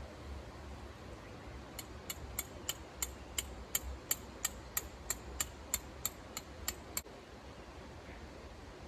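A steady run of about seventeen sharp, ringing clicks, about three a second, starting about two seconds in and stopping about seven seconds in, over a steady hiss.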